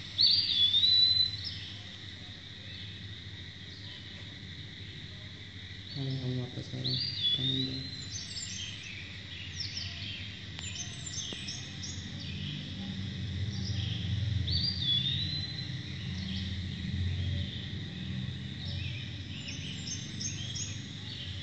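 A bird's whistled call, a short swoop that levels off, repeated about every seven seconds, with higher chirps in between, over a steady low hum.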